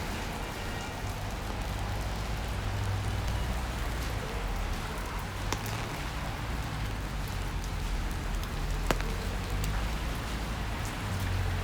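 Steady rain falling and pattering on surfaces, over a low rumble, with a couple of sharp ticks in the middle.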